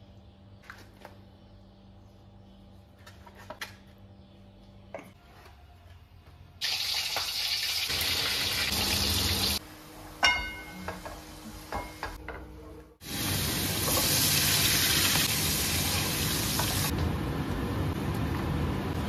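Fish frying in chili sauce in a pan: a quiet start with a few light clicks and knocks of kitchen handling, then loud steady sizzling from about six and a half seconds in, broken by a short quieter gap with a metallic clink around ten seconds, after which the sizzling comes back.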